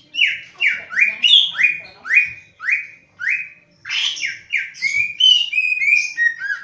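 Cucak ijo (green leafbird) singing: a run of about eight loud whistled notes, each sweeping downward, roughly two a second, then about halfway through a quicker, varied phrase of notes that step lower in pitch.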